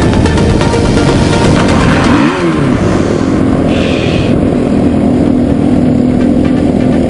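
Dirt bike engine running hard and revving, its pitch rising and falling sharply about two seconds in.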